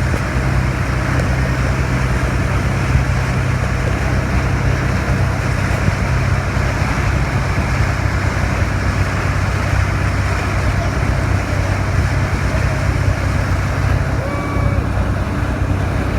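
Motorboat engine running steadily at a low, even pitch, under a continuous rush of wind and water.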